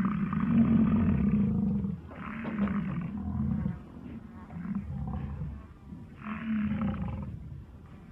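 A big cat roaring: four low roars in a row, each about a second long, the first the loudest.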